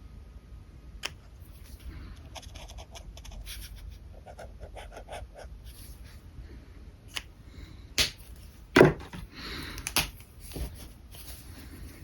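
Alcohol markers at work on paper: scratchy nib strokes with sharp clicks of the caps being pulled off and snapped back on, the loudest knock coming just before nine seconds in.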